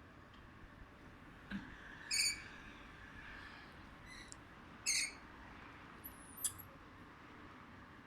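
Parrot giving short chirping calls, two of them about two and five seconds in, with a brief high whistle a little after.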